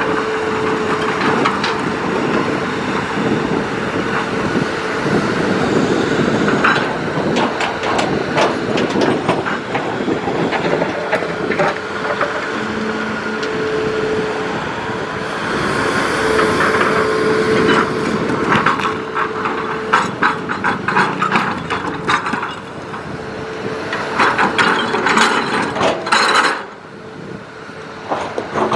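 Hitachi Zaxis hydraulic excavator working: engine and hydraulics running, with a whine that comes and goes, under constant clanking, rattling and scraping of steel and rock.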